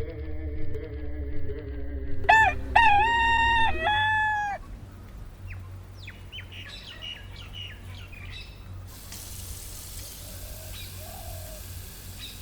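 A rooster crowing once, a full cock-a-doodle-doo about two seconds in, followed by small birds chirping for a few seconds. A low musical drone slides downward underneath at the start and fades out as the crow ends, and a steady hiss sets in near the end.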